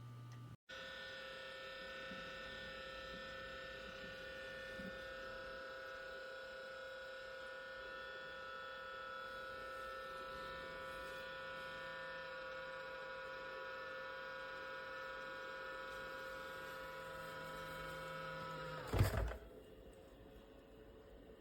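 Small electric fan motor of an ultrasonic cool-mist humidifier humming steadily at several fixed pitches. A loud knock comes near the end, and the hum stops.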